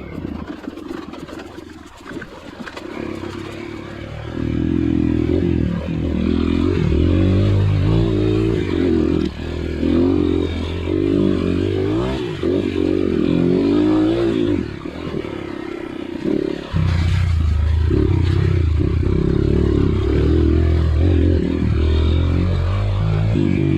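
Dirt bike engine running under load, quiet at first, then revving up and down from about four seconds in. It eases off briefly and opens up again sharply near seventeen seconds.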